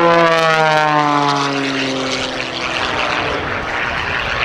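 Oracle Challenger III propeller aerobatic biplane making a low, fast pass, its engine and propeller note sliding steadily down in pitch as it goes by, then trailing off into an even rushing noise.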